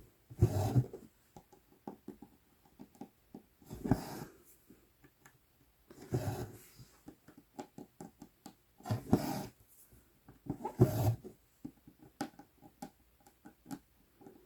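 Embroidery floss drawn through Aida cloth in long swishes, about every two to three seconds, with small ticks of the size-24 needle piercing and tapping the fabric between the pulls.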